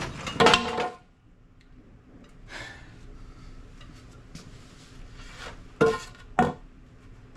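Metal tools and parts clinking and clanking. There is a ringing clank in the first second, a faint rattle or two, then two sharp metallic knocks about six seconds in.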